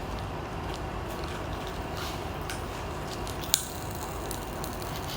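Popping candy crackling in the mouth: scattered faint pops over a steady hiss, with one sharper click a little past the middle.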